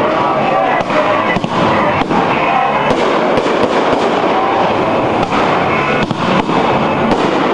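A dense fireworks barrage: many overlapping bursts and crackling reports in quick succession, with no let-up.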